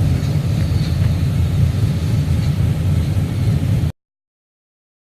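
Car engine running with a deep, steady low rumble that cuts off abruptly about four seconds in, followed by total silence.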